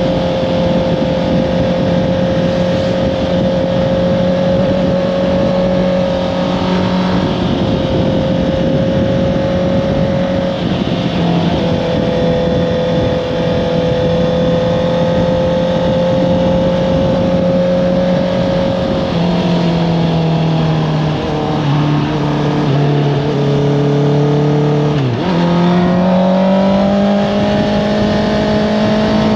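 Honda CBR650R's inline-four engine with an Akrapovič exhaust, heard from on board while riding. It holds steady revs for most of the first twenty seconds, then the revs fall in steps, dip sharply about 25 seconds in, and climb again near the end.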